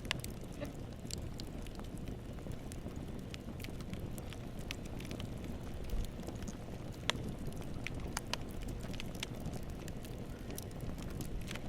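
Campfire burning: a steady low rumble of flame with scattered sharp crackles and pops from the burning wood, one louder pop about seven seconds in.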